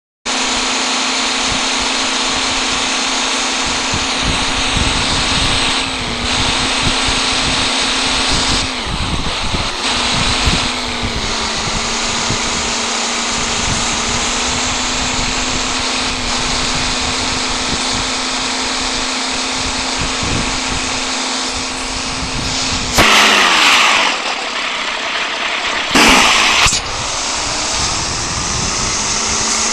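A heavy truck's engine running steadily at a constant pitch, with wind buffeting the microphone; twice near the end it surges briefly louder, with the pitch sliding down afterwards.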